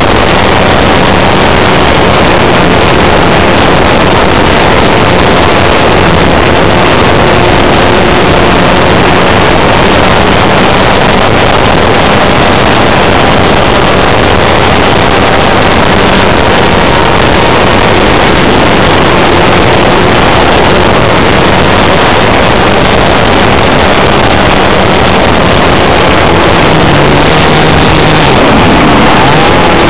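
Model aircraft's JBA 75 engine running steadily and loudly under a heavy rush of wind noise, heard through a small camera carried on the plane. The engine note shifts in pitch near the end as the throttle changes.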